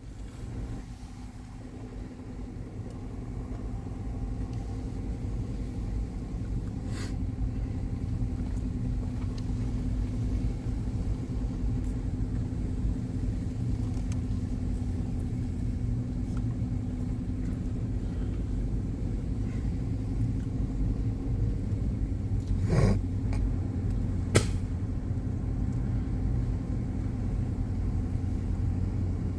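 A vehicle driving slowly: a steady low engine and road rumble that builds over the first few seconds, with a few short sharp knocks partway through.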